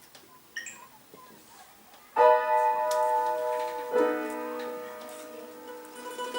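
Piano music: after about two quiet seconds, two chords are struck, one a little after two seconds in and another about four seconds in, each left ringing and slowly fading.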